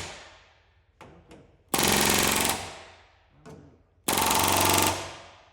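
Pneumatic rivet gun hammering rivets into sheet metal in two bursts of under a second each, about two and four seconds in, with a short ring after each. The ring of an earlier burst fades at the start.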